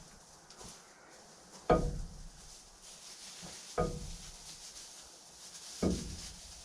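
Three sharp knocks on a hollow, ringing object, about two seconds apart, each with a short ring after it.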